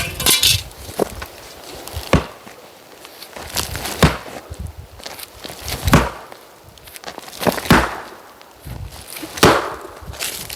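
Oak firewood being chopped, with a heavy blade striking wood about every two seconds, six strikes in all.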